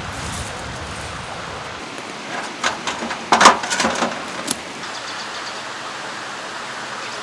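Steady rush of a mountain stream, with a low rumble for the first couple of seconds and a short cluster of sharp knocks and clatter in the middle, the loudest about three and a half seconds in.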